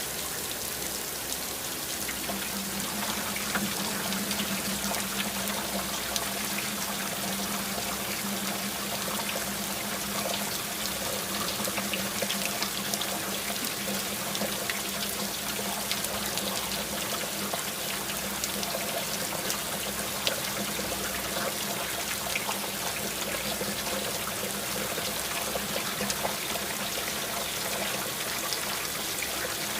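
Steady rain: a dense patter of drops with water trickling and pouring, as from runoff. A faint low hum runs under it from about two seconds in.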